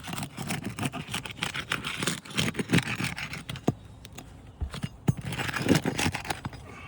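Irregular scraping with sharp clicks and knocks as asphalt roof shingles are lifted and a shingle-removal tool works under them to free the nails.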